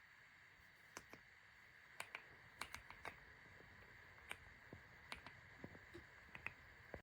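Mechanical keyboard keystrokes, an EPOMAKER x Aula F75 with Ice Vein switches: faint, irregularly spaced key clicks, about twenty in all.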